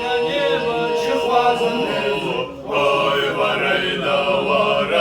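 Male voices singing a cappella in harmony, in slow, long-held notes.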